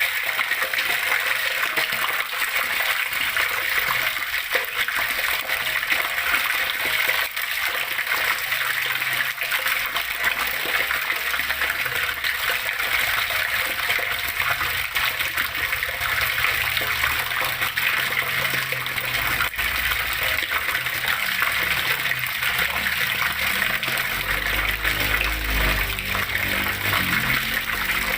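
Flowing water running and splashing steadily, a continuous rushing sound with no breaks. A low rumble rises underneath in the second half.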